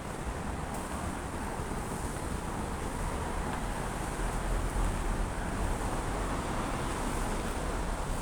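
Steady outdoor wash of light drizzling rain and wind, with wind rumbling on the microphone.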